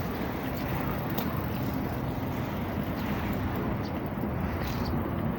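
Steady low rumble of distant engine noise outdoors, even in level throughout.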